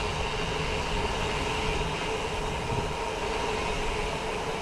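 Steady rolling rumble of a bicycle coasting downhill without pedalling, tyres on the trail and moving air, with a faint even hum over it.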